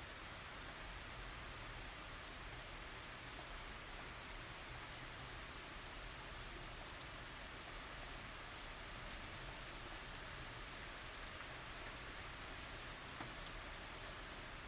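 Steady light tropical rain falling on surfaces, an even hiss with faint individual drop ticks throughout.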